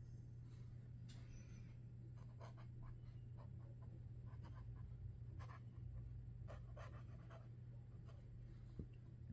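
Sharpie Creative Markers drawing: faint, short scratchy strokes of the marker tips in irregular clusters, over a steady low hum.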